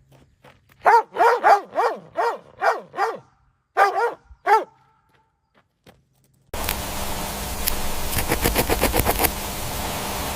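An animal giving a quick run of about seven short calls that rise and fall in pitch, then two more after a short pause. About six seconds in it cuts to a steady hiss with a flurry of rapid clicks.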